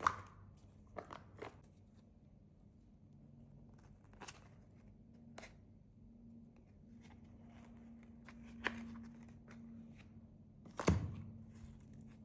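Sparse taps and short crinkles of candy wrappers and packaging being handled, over a faint steady low hum. A louder rustle comes near the end.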